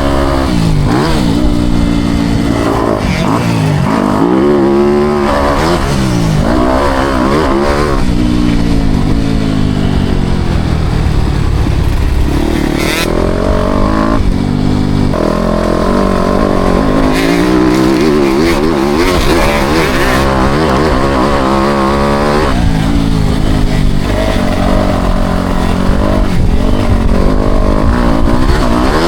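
Four-stroke motocross bike engine revving hard and backing off over and over as it is ridden round the track, the pitch sweeping up and down, with a short drop in the engine note about halfway through.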